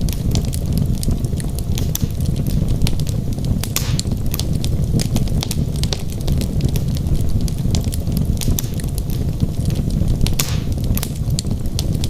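Wood fire burning in a fireplace: frequent sharp crackles and pops of the burning logs over a steady low rumble of the flames, with a short hiss about four seconds in and another near the end.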